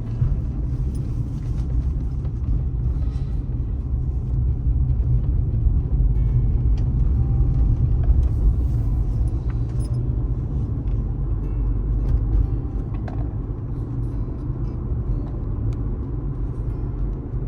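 Steady low rumble of a car driving at highway speed: engine, tyre and road noise.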